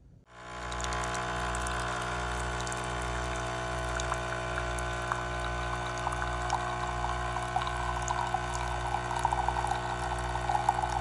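Liquid pouring or running, over a steady machine hum with a low pulsing throb, growing crackly towards the end.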